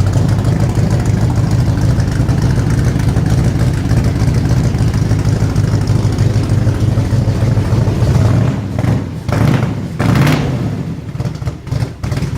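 Exhaust of a cammed 383 stroker small-block Chevy V8 idling, still cold from its first start. The note is steady, then drops and surges a few times near the end, with a short rushing noise about ten seconds in.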